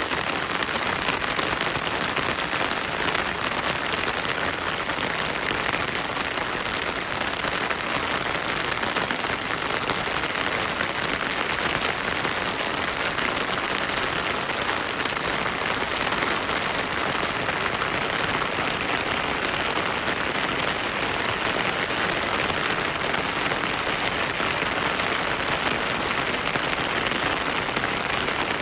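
Heavy rain falling steadily through a forest: a dense, even hiss of countless drops that never lets up.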